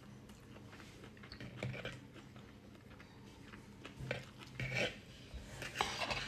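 Faint chewing of a mouthful of couscous salad. From about four seconds in, a metal fork scrapes and taps against a wooden bowl as more food is scooped.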